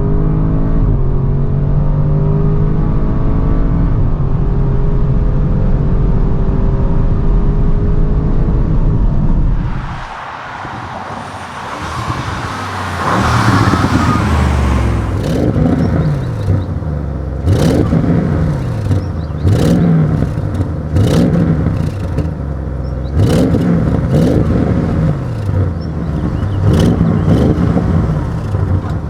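2022 Audi RS6 Avant's twin-turbo V8 running at steady load for about ten seconds, then, after a short dip, revving hard again and again, its pitch rising each time and broken by sharp cracks.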